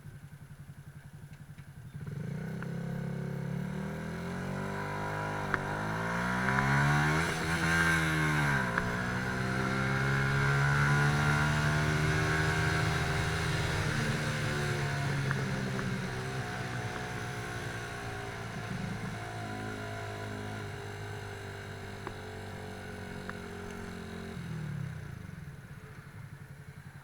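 Motorcycle engine pulling away from idle: the revs climb for several seconds, drop sharply about eight seconds in, hold steady, then wind slowly down and fall back to idle near the end.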